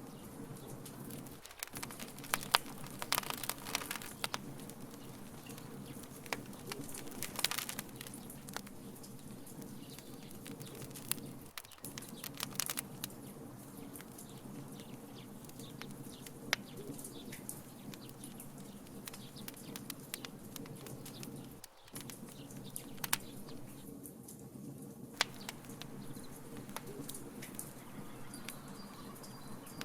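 Wood fire crackling in a fire pit: irregular sharp pops and snaps over a steady low rumble, with busier flurries of pops now and then.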